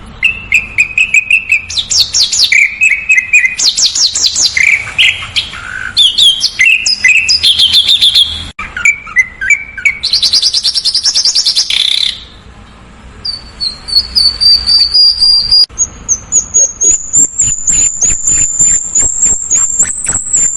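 Songbird song from a masteran training recording: quick bursts of rapidly repeated high chirps and trills in changing phrases, then after a brief pause a long, thin, high whistle that rises slightly, over a fast series of ticking notes near the end.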